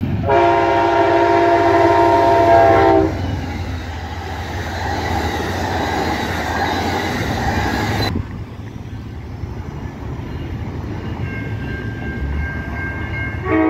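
An Amtrak diesel locomotive's multi-tone air horn sounds loudly for about three seconds. The train's passenger cars then roll past with steady wheel and rail noise. After an abrupt change about eight seconds in, a level crossing's warning signal rings faintly, and a train horn starts again near the end.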